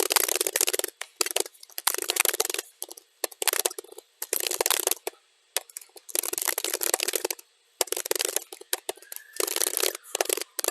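Computer keyboard typing, sped up to double speed, so the key clicks run together into dense rattling runs. The runs are broken by short pauses, the longest about five seconds in.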